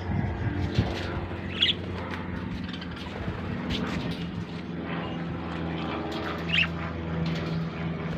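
Lovebirds chirping and squawking, with two sharp high calls, one about a second and a half in and one near the end, over a steady low hum.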